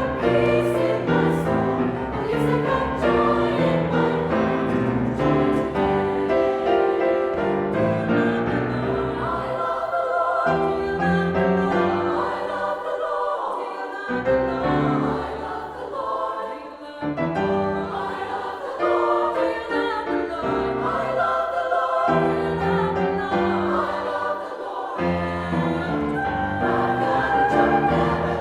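A mixed choir singing, many voices in harmony, with a piano faintly under it.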